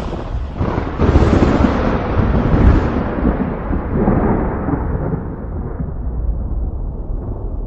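Thunder: a sudden crack about a second in that rolls into a long, deep rumble, its brighter edge slowly dying away.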